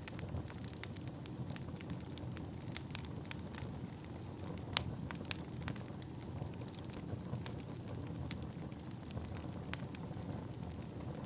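Wood fire burning, with a steady low rush and frequent irregular sharp crackles and pops; the loudest pop comes a little under five seconds in.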